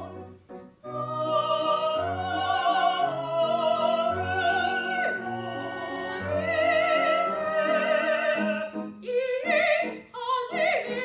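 Operatic singing by a high voice with wide vibrato over orchestral accompaniment with a pulsing bass line: long held notes, and one sliding drop about halfway through.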